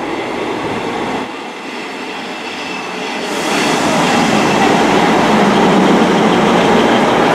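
Class 158 diesel multiple unit pulling into the platform, its engines and wheels on the rails growing louder about three seconds in as the coaches draw alongside.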